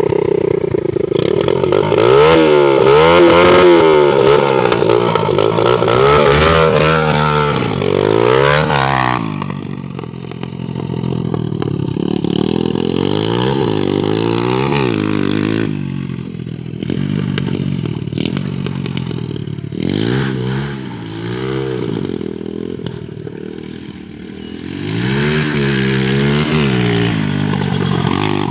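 A 125cc pit bike's single-cylinder engine with an open pipe and no muffler is revved hard again and again. The pitch rises and falls in repeated blips, with a long run of revs in the first several seconds, then separate revs with lower running between them.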